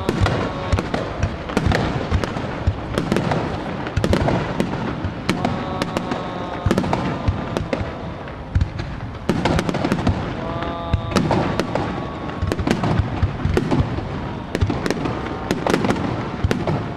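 Aerial fireworks bursting directly overhead in a continuous barrage: sharp bangs and crackling come several times a second with no break.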